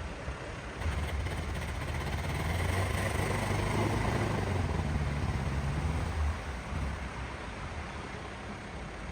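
A car engine running, growing louder from about a second in and fading away after about six seconds, with a hiss over it.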